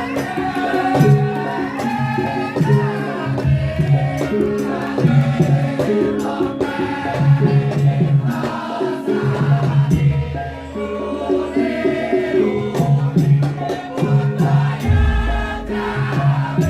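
Gending for Wonosobo lengger: Javanese gamelan-style ensemble music with pitched tones, steady percussion strokes and a singing voice, continuous throughout. A deep low tone comes in near the end.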